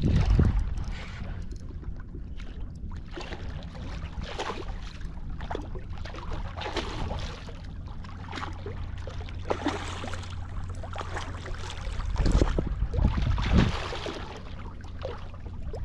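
Water splashing and lapping around a fishing kayak, with wind rumbling on the microphone; louder surges come just after the start and again about twelve to fourteen seconds in.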